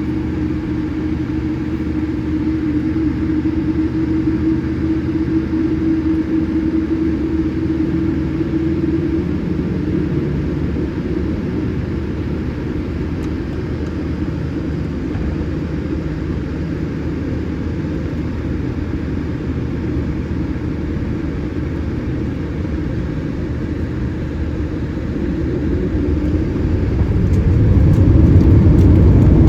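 Boeing 787-8 jet engines heard from inside the cabin on the ground: a steady rumble with a hum that fades out about a third of the way in. Near the end the engine sound grows louder as thrust comes up.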